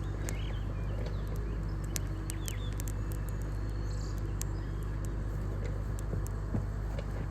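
Steady low drone of a CAT 302.4D mini excavator's diesel engine running while it works stumps, with birds chirping and scattered sharp clicks over it.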